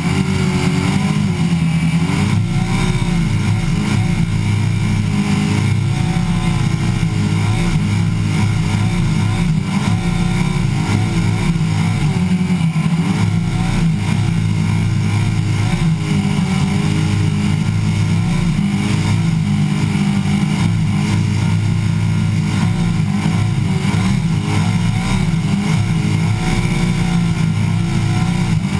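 Supercharged skid-car engine held at high revs through a long burnout, the revs wavering up and down without a break. Heard close up from the bonnet, loud and continuous.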